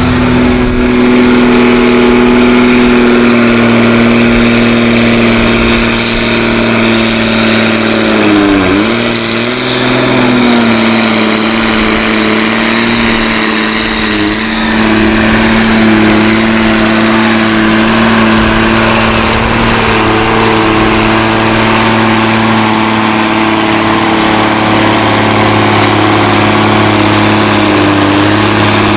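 Competition pulling tractor's engine at full throttle during a pull, running loud and steady at high revs, with a brief dip in revs about nine seconds in before it picks up again.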